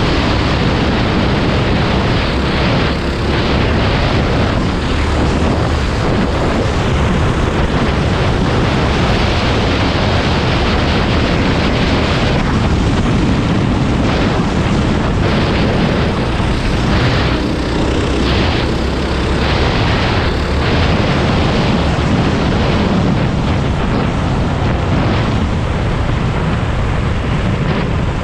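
Racing kart's Predator 390 single-cylinder four-stroke engine running hard at race speed, loud and unbroken.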